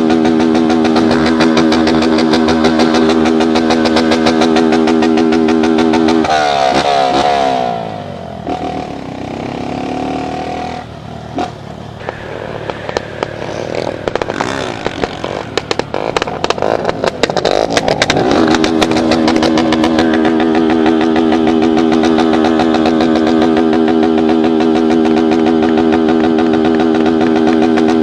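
Motorcycle engine held at high revs with a steady drone. About six seconds in the pitch wavers and drops away into a rougher stretch with clattering, then the engine is held high and steady again from about eighteen seconds on.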